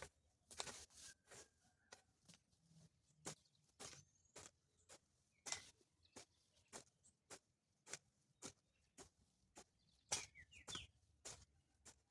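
Faint, irregular crackles and snaps of someone moving and handling things among dry brush, two or three a second, with a few faint bird chirps in between.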